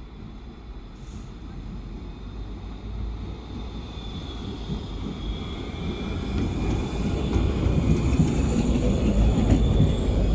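Tram running on the rails, its rumble growing steadily louder, with faint high wheel-squeal tones coming in from about four seconds in.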